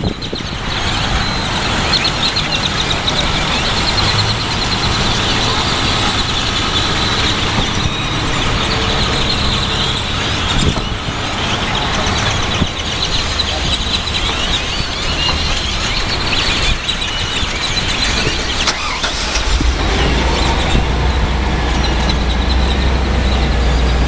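A large flock of birds calling all at once, a dense, continuous chatter of many overlapping chirps and whistles. A low rumble of traffic underneath grows louder about three-quarters of the way in.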